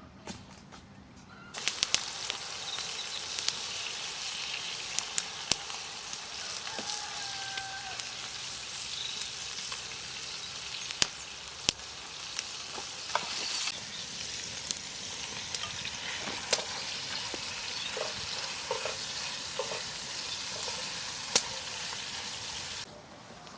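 Food frying in a hot pan, an even sizzle with scattered crackles and pops. It starts about a second and a half in and cuts off suddenly near the end.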